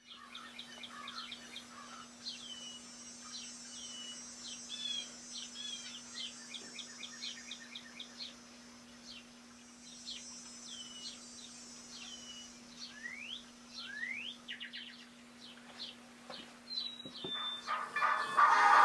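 Birds chirping: many short, quick chirps and a couple of rising whistles, over a faint steady low hum. Near the end a louder sound begins to swell in.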